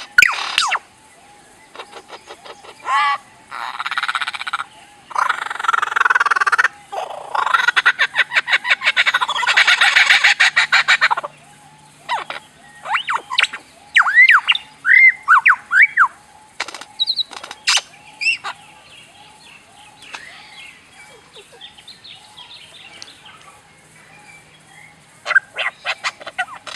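A bird making laser-gun-like sounds: fast trains of clicking pulses, then short arched chirps, in separate phrases with pauses between them.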